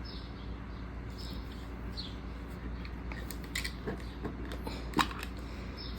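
Faint handling of paper planner supplies, likely a packet of stickers being picked up and opened: soft rustling and a few small clicks, the sharpest about five seconds in, over a steady low hum.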